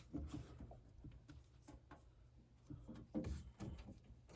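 Faint clicks and rubbing of hands working on the furnace's pressure switch tubing and fittings, with a slightly louder scuffle about three seconds in.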